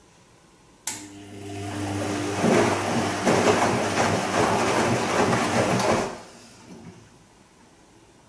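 Bosch Serie 2 Vario Perfect washing machine turning its drum in a gentle silk-cycle wash: a click and motor hum start suddenly about a second in, then laundry tumbling in water for about four seconds before the drum stops abruptly.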